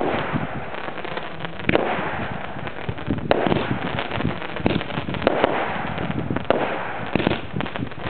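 Fireworks going off: a dense, continuous crackling with many sharp bangs, the loudest coming about once a second.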